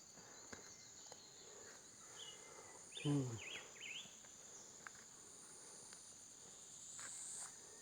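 Insects chirping steadily in a high-pitched chorus, with a brief voiced sound from a person about three seconds in.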